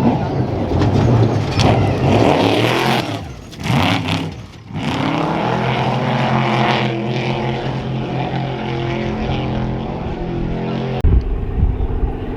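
Trophy truck racing engines at high revs, one loud pass in the first three seconds, then another engine holding a steady note. The sound changes abruptly near the end.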